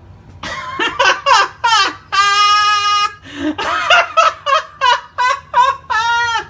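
A man's loud, drawn-out maniacal laugh: a burst of short falling 'ha's, a long held yell, then another run of falling 'ha's.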